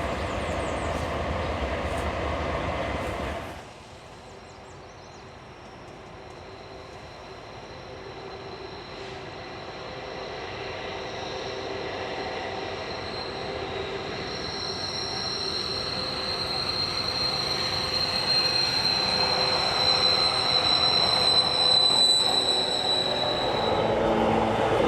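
A train's steel wheels squealing against the rail: a steady high-pitched squeal that grows louder as the train comes on. Before it, a loud low rumble cuts off suddenly about three and a half seconds in.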